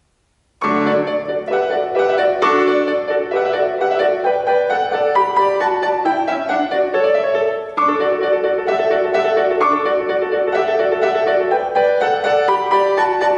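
Solo piano starts playing after silence about half a second in, at the opening of a classical piece, with a moment's pause near eight seconds before the playing resumes.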